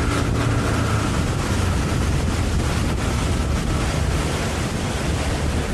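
Motorboat underway: a steady engine drone under rushing water, with wind buffeting the microphone.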